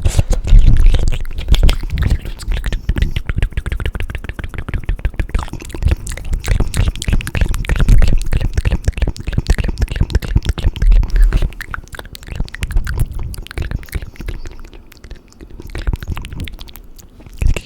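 Fast wet mouth and tongue sounds close to the microphone: a rapid, dense run of clicks and smacks with low thumps, thinning out a little near the end.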